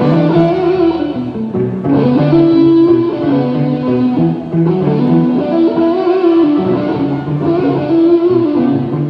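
Live band music led by an electric guitar through the PA during a sound check, playing held notes and chords that change every second or two.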